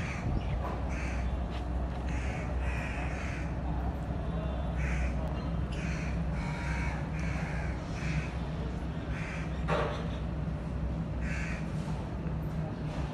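Birds calling, many short calls about one a second, over a steady low hum.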